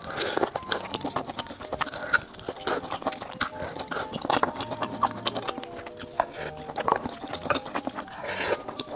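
Close-miked eating: biting and chewing braised meat off the bone, with many short wet clicks and smacks from the mouth. Soft background music runs underneath.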